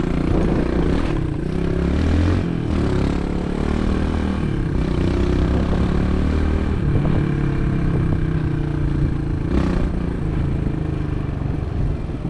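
Motorbike engine running while riding, heard from a helmet camera, its pitch shifting a few times with changes of speed, over steady wind and road noise.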